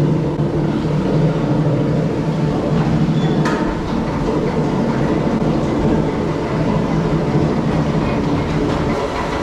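Loud, steady mechanical rumbling and clatter from the Drenched water ride's machinery as the ride vehicle travels, with a sharp click about three and a half seconds in.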